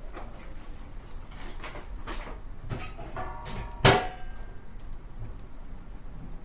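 Kitchen handling clatter: a few soft knocks, then a ringing clink and one sharp knock with a short ring about four seconds in, over a steady low hum.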